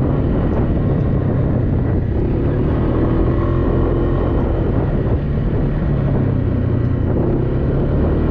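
Off-road vehicle engine running at a steady pitch and level, a continuous low drone.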